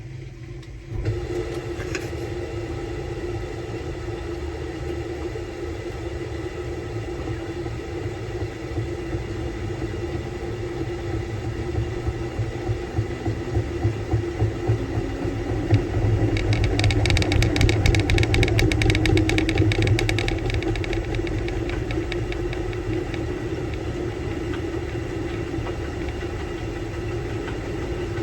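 Samsung Bespoke Grande washing machine running on its quick-wash course, a steady motor hum over a low drum rumble. It steps up about a second in, grows louder with a fast fine rattle between about 16 and 20 seconds, then eases back.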